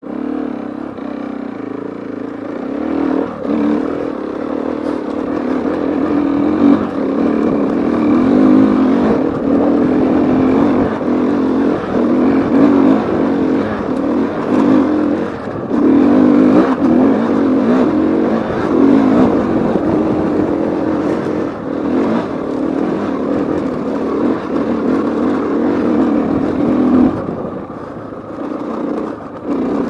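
KTM 450 EXC-F's single-cylinder four-stroke engine running under load as the enduro bike climbs, the throttle opening and closing so the engine note rises and falls; it eases off near the end.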